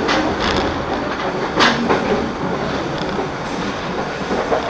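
Argo Parahyangan passenger train running, heard from inside the coach: a steady rumble of wheels on rail broken by a few sharp clacks. The loudest clack comes about a second and a half in, and a quick group of them comes near the end.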